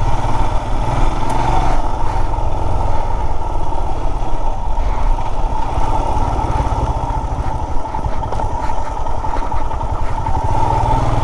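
Motorcycle engine running steadily as the bike is ridden along a rough off-road trail.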